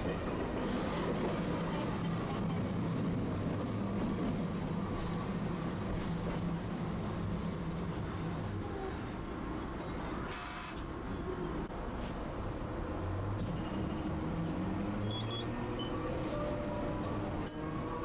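Tosaden streetcar running on its tracks: a steady rumble of wheels on rail with the hum of the traction motors, shifting in pitch with speed. A short high hiss comes about ten seconds in.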